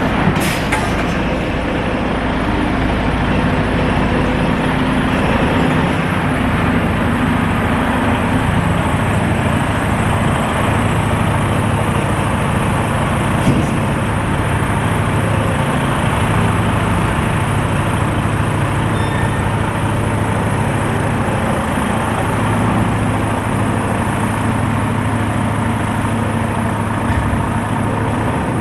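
Semi truck running: a steady low engine drone with road noise, broken by a brief click about half a second in and another around the middle.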